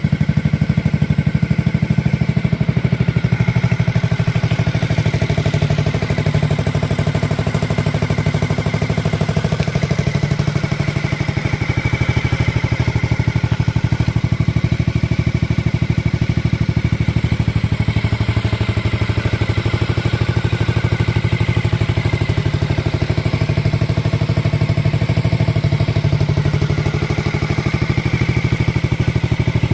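Honda Forza MF10 scooter's single-cylinder engine idling steadily with a fast, even beat and some clatter, running after the engine swap.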